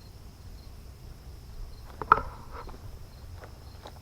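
Evening insect chorus of crickets chirping: a steady high trill with a faint chirp pulsing about three times a second. A sharp crack about two seconds in is the loudest sound, followed by a few lighter clicks.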